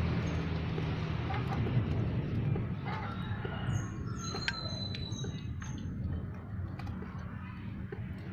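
A rooster crowing over a steady low hum, with a few short high chirps about halfway through.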